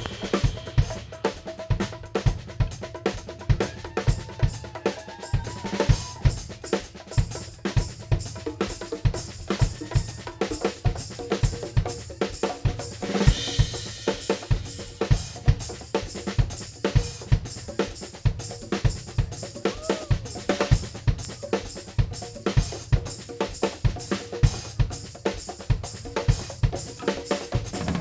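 Live band playing an instrumental passage: a drum kit keeps a steady beat on kick drum and snare with cymbals, under pitched instrument lines.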